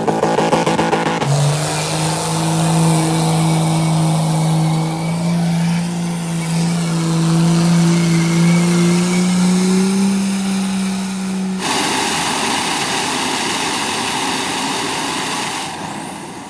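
Car engine held at high revs, its pitch creeping slowly upward for about ten seconds, then changing abruptly to a rough, noisy roar near the end.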